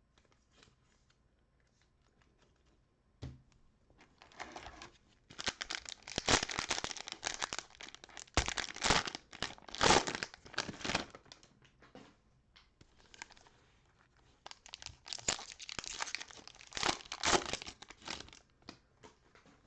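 Cellophane wrapper of a trading-card cello pack being torn open and crinkled, in two long spells of loud crackling after a soft knock about three seconds in.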